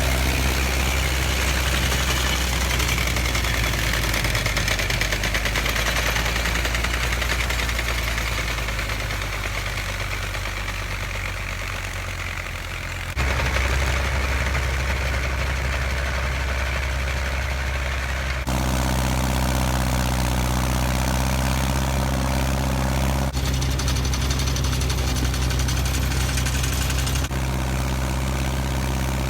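Massey Ferguson 50 tractor engine running steadily while driving a PTO pull-type snowblower. Its pitch and loudness change abruptly several times.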